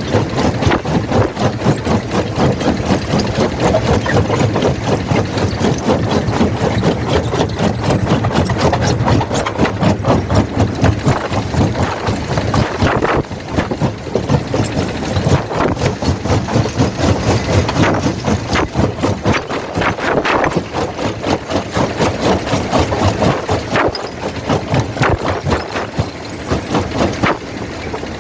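Quarry primary jaw crusher running under load, with a steady low rumble and rapid, continuous knocking and rattling as rock is broken between the jaws.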